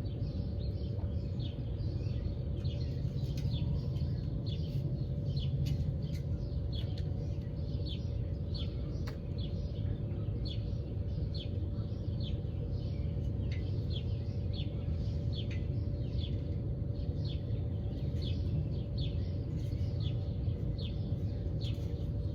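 Birds chirping in short, high, downward-sliding chirps that repeat about two or three times a second, over a steady low rumble and a faint steady hum.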